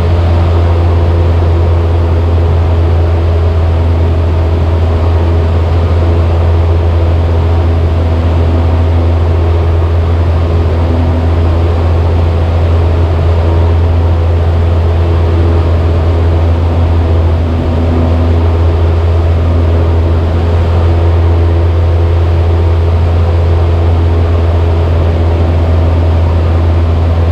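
Cessna 172's piston engine and propeller droning steadily in flight, heard from inside the cabin: a deep, unchanging hum with a steady rush of air over the airframe.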